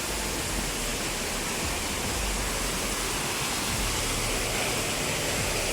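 Rushing stream water: a steady, even hiss from flowing water.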